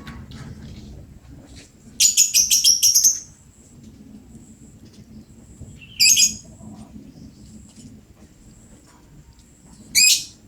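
Lovebird calling in loud, high-pitched chirps: a rapid run of about nine notes about two seconds in, then two shorter bursts, one midway and one near the end.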